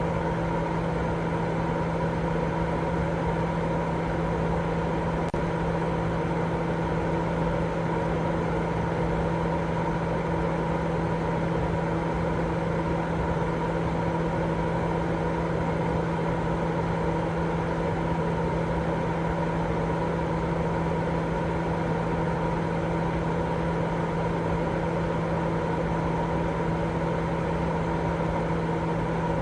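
Steady, unchanging sleep-aid noise: an even rush weighted toward the low and middle range, with a steady hum running through it like a motor or fan.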